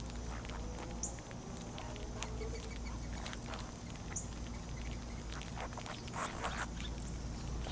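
Songbirds at a backyard feeder: a few brief, sharp high chip calls a few seconds apart, over scattered soft clicks and patter from feeding.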